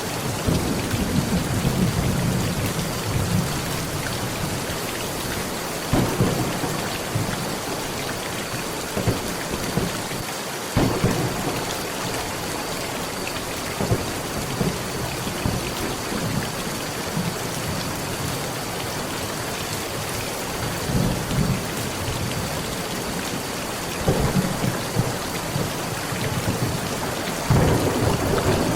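Heavy rain falling steadily on a metal roof, with repeated thunder: a long low rumble at the start, then shorter claps and rumbles every few seconds, and a louder one near the end.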